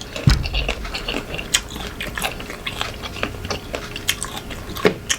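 Close-miked biting and chewing of crisp unripe green mango, a run of short crunches, with a low thump just after the start.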